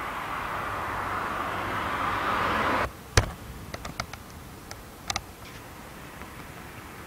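Heavy storm rain hissing steadily and growing louder, then cutting off abruptly about three seconds in. Just after that comes a sharp knock, the loudest sound, followed by a scatter of lighter ticks over the next two seconds.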